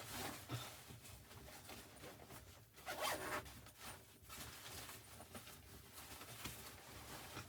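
A run of short rasping scrapes and rustling, with a louder scrape about three seconds in.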